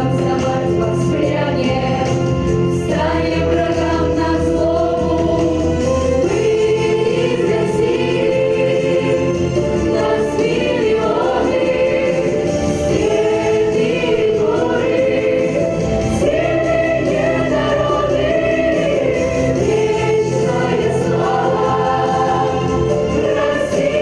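Children's vocal ensemble singing together as a choir over a steady instrumental accompaniment.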